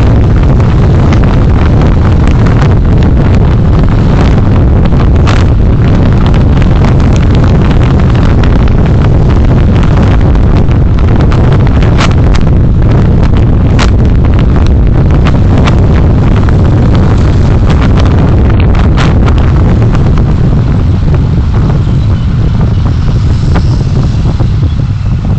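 Road and wind rumble from a moving vehicle as picked up by a dashcam microphone: a loud, steady low roar with scattered sharp clicks and knocks. It eases somewhat near the end.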